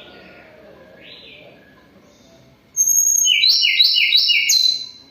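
Tledekan gunung singing while molting: a loud phrase starting a little past halfway, a high thin whistle followed by about four quick repeated notes, after a few faint calls.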